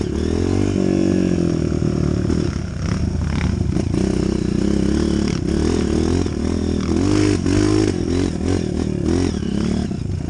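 Off-road motorcycle engine revving up and down repeatedly while riding a trail, with a few clattering knocks.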